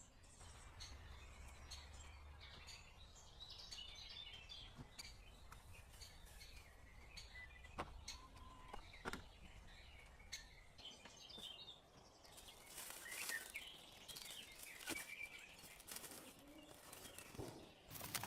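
Faint woodland ambience with small birds chirping in clusters, about four seconds in and again near thirteen seconds, and a few light clicks between them.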